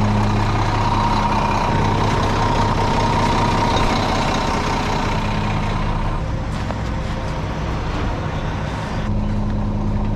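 Heavy diesel truck engine running steadily, with a faint high whine over it for about the first six seconds.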